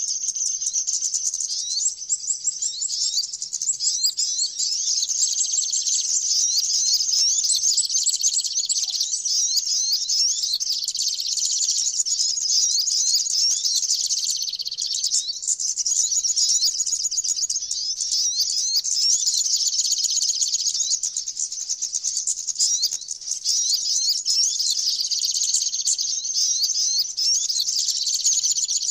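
Flowerpeckers (cabean) and sunbirds (sogok ontong) calling together: a dense, continuous chatter of rapid high-pitched tweets and trills, thinning briefly about halfway through and again a little later.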